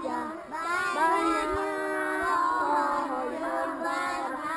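A group of children singing together, several high voices overlapping in held, sliding notes.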